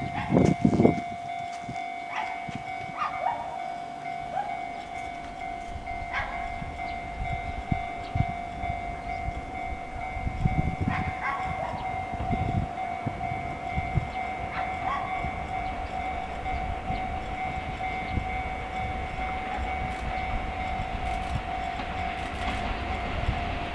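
EF64 electric locomotive hauling Hoki hopper wagons approaching from far down the line, a low rumble that slowly builds. A steady high tone runs under it throughout, and about six short chirps come in the first fifteen seconds.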